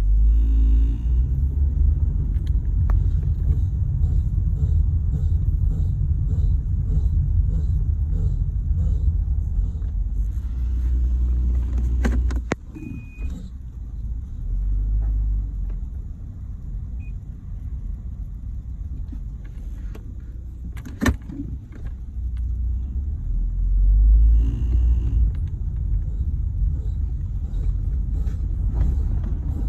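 Ford Territory on the move: steady tyre and road rumble with a regular ticking from a wheel, the wheel noise being chased down. Two sharp knocks come through about twelve and twenty-one seconds in.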